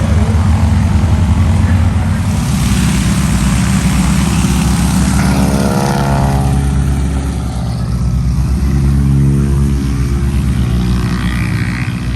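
Loud vehicle engine running steadily, with a pitch that falls a little past the middle, as of an engine passing by.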